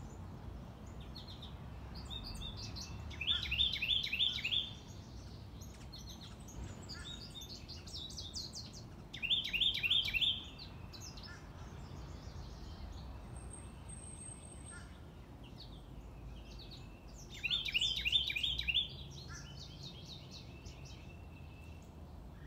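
Songbirds singing in the early morning: three loud phrases of quick, falling notes, repeated every six to eight seconds, with softer chirps from other birds between them, over a low background rumble.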